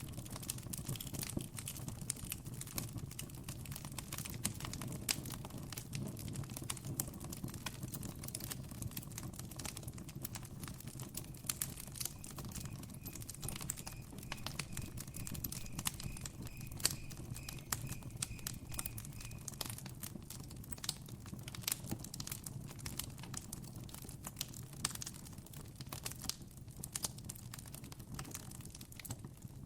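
Campfire crackling steadily, with irregular sharp pops and snaps over a low, even rumble of the burning wood. Midway, a faint high chirp repeats a few times a second for several seconds.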